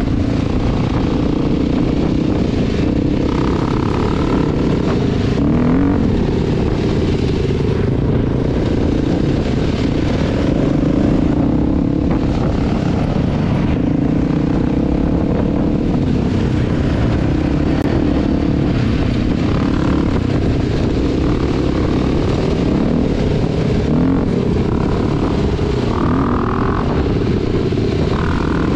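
Off-road dirt bike engines running while riding, loud and steady, with the revs rising and falling.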